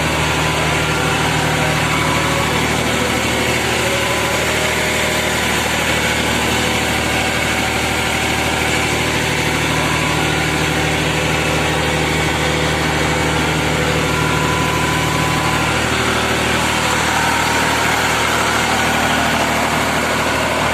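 New Holland 3630 tractor's diesel engine idling steadily.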